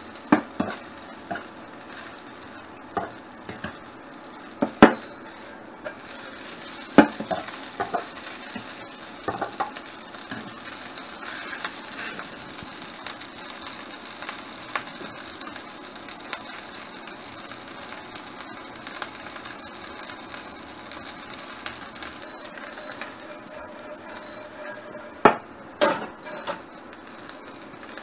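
Steamed Chinese noodles sizzling in an oiled wok, with a steady frying hiss. A ladle knocks and scrapes against the pan now and then while the noodles are stirred, with two sharp clanks near the end.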